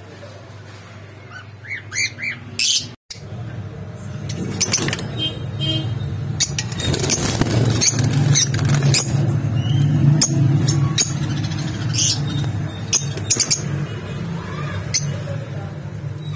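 Pet birds chirping in short, high calls. About three seconds in the sound cuts briefly, and after that a steady low hum runs under the chirps.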